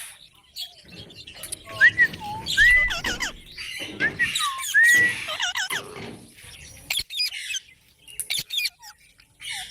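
Pet parrot calling: a run of short arched whistles and harsh squawks in the first half, then fewer, sharper squawks with gaps between them.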